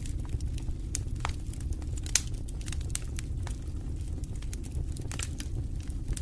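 Wood fire in a fireplace crackling: irregular sharp pops and snaps over a steady low rumble of the flames, one louder pop about two seconds in.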